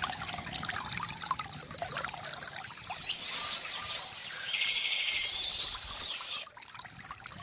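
Stream water trickling and babbling, full of small splashing ticks. A songbird sings over it from about three seconds in, including a quick trill near the middle, and the brighter sound cuts off suddenly about six and a half seconds in.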